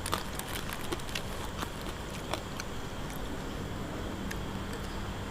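Someone eating: a scatter of small clicks and smacks, several in the first two and a half seconds, then quieter.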